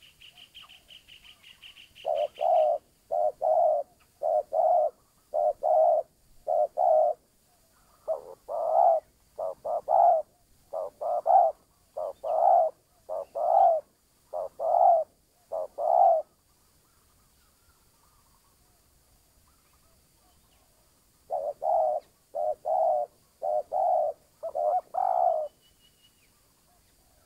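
Spotted dove cooing: repeated short, low coos in phrases, stopping for about five seconds midway before another phrase. A high buzzy trill sounds over the first couple of seconds.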